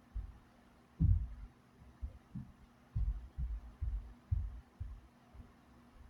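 Duracraft 10-inch box fan running with a steady low motor hum, while its airflow buffets the microphone in irregular low thumps.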